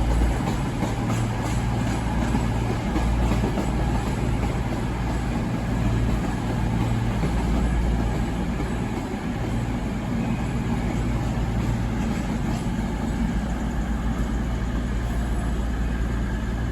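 Train running at a station platform: a steady low rumble with a deep hum, and faint clicking in the first few seconds.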